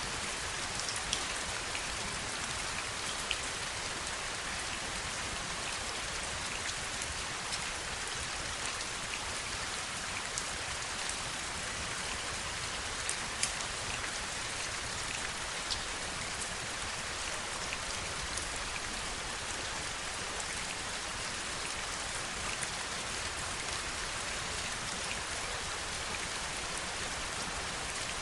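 Heavy rain falling steadily, a dense even hiss with scattered sharp ticks of individual drops striking close by.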